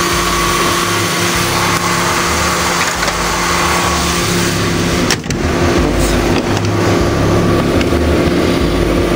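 2000 Ford Mustang's V6 engine idling steadily, with a brief dip in the sound about five seconds in.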